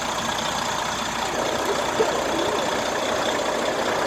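Truck engines running steadily in a rally convoy, a continuous mix of engine noise.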